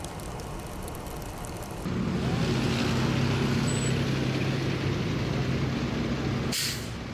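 Road vehicle sounds: a rushing noise at first, then from about two seconds in a steady engine hum, with a brief sharp hiss near the end.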